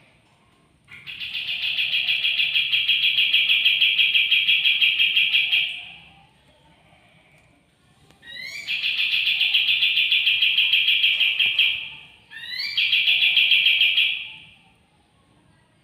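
A caged kapas tembak songbird singing in three long, rapid trills of high, evenly pulsed notes, each lasting a few seconds. The second and third trills open with quick rising notes. This is a newly caught bird starting to sing after two days in its new home.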